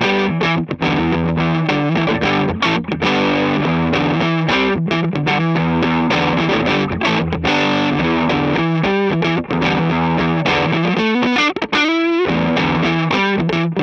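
Gibson ES-335 semi-hollow electric guitar played through distortion, a lead line of held, sustained notes, with a wide vibrato on one held note near the end.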